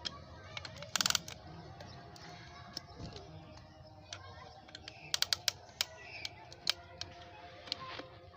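Light metallic clicks and taps of hand tools and engine parts during the reassembly of an Isuzu 4JB1 engine block, with a short fast rattle about a second in and a quick run of clicks around five seconds in.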